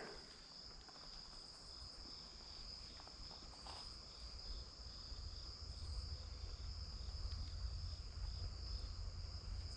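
Crickets singing at dusk: a steady high trill with a second insect chirping about twice a second beneath it. A low rumble grows louder through the second half.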